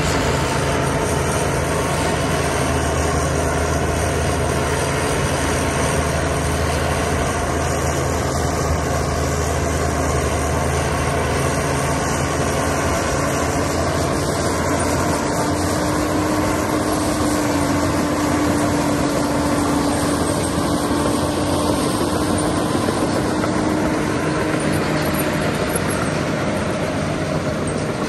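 Diesel engines of heavy earthmoving machinery running steadily under load, a bulldozer and dump trucks at work. A steady higher hum joins about halfway through.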